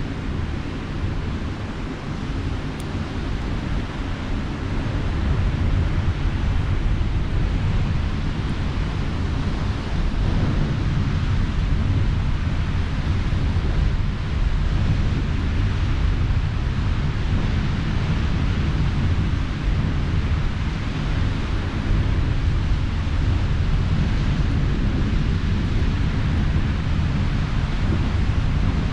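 Steady sea surf and wind, with heavy wind rumble on the microphone; the level rises a few seconds in.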